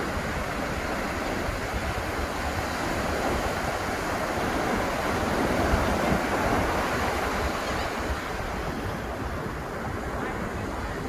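Atlantic surf breaking and washing up the beach: a continuous rushing wash that swells a little around the middle and eases off again.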